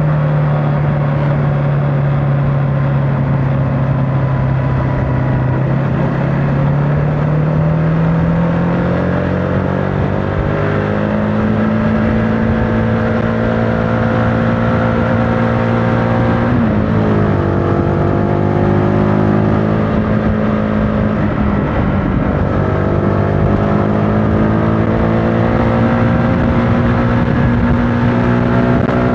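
Motorcycle engine running on the move, its note sinking over the first few seconds, then climbing, with two short dips in engine speed about 16 and 21 seconds in before it climbs again.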